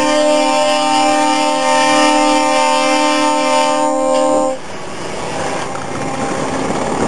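Truck air horn blowing a loud multi-tone chord, held steady for about four and a half seconds before cutting off sharply, leaving a rushing noise.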